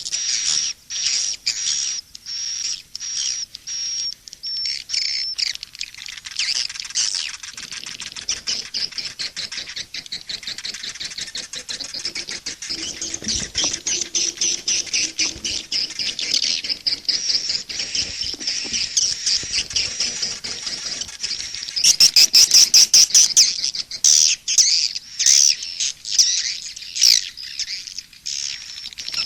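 Recorded swiftlet calls: high chirps repeating a couple of times a second at first, giving way to dense twittering, with a louder burst of very rapid chirps about two-thirds of the way through. It is an 'SP' (suara panggil, calling-sound) mix of the kind played from swiftlet houses to lure the birds in.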